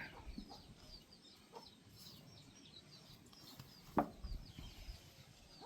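Faint, rapid high chirping of chickens, a string of short downward chirps, with one sharp click about four seconds in.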